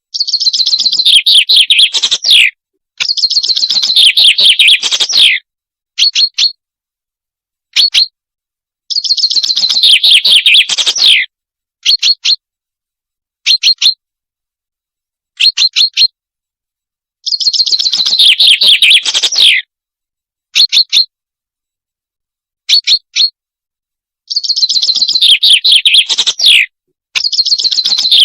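Calls of the bird that Arabic-speaking hunters call the salanj, recorded for use as a hunting lure. Long, rapid, high trills of about two seconds, each falling away at its end, alternate with short clusters of two to four quick chirps, with brief silences in between.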